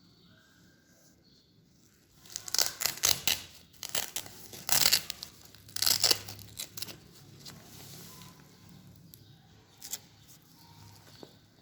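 Stiff fabric being worked by hand: a quick run of loud, rasping tearing strokes that start about two seconds in and die down a few seconds later, with a few fainter ones near the end.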